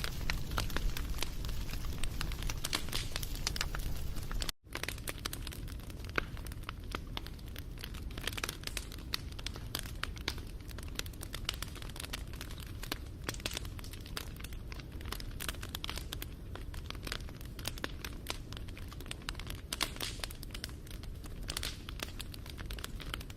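Campfire crackling: a dense run of small pops and snaps over a steady low rumble of burning wood. The sound cuts out for a split second about four and a half seconds in, then carries on a little quieter.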